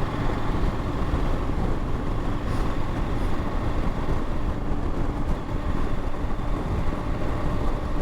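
Motorcycle being ridden at a steady speed: a constant rumble of engine and wind noise with faint steady engine tones, no change in pace.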